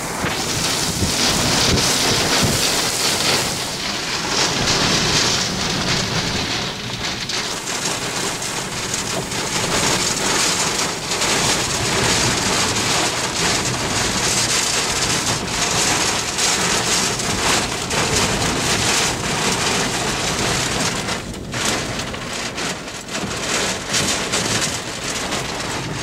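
Heavy wind-driven thunderstorm rain pelting a vehicle, heard from inside the cabin: a loud, dense hiss of drops striking the roof and windshield.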